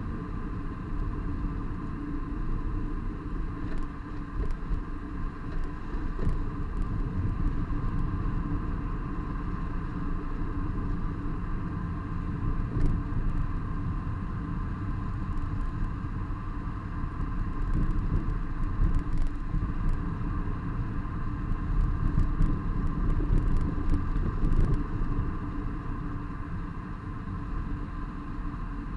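Renault Laguna II's 3.0 V6 car on the move: a steady low rumble of engine, exhaust, tyres and wind, with scattered short sharp ticks.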